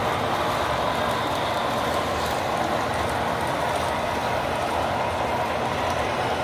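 Model trains running steadily on a display layout: a continuous rolling rumble of wheels on track.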